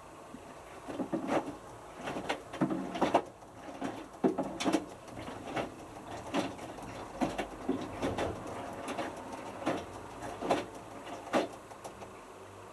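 Hotpoint Futura washing machine drum tumbling a small wet load. The clothes and water slosh and knock irregularly for about ten seconds, then the drum stops.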